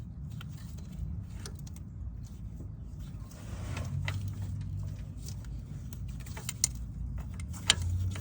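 Scattered small clicks and rattles of hand work as the electrical connector is plugged onto a newly installed AC compressor, over a steady low hum.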